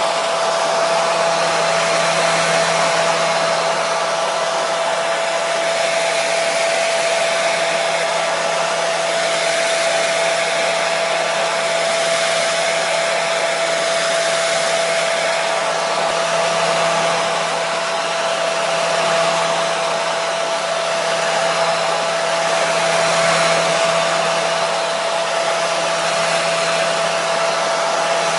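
Electric hair dryer running steadily: a constant rushing blow of air with a steady motor whine.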